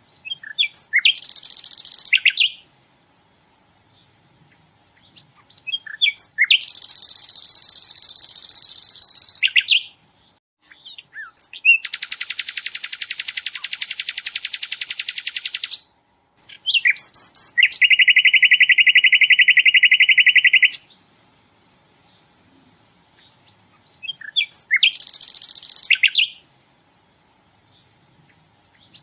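Sikatan londo flycatcher singing: five loud phrases, each opening with a few sharp chips and breaking into a long, very fast buzzing trill lasting several seconds. The trill in the fourth phrase sits lower than the others.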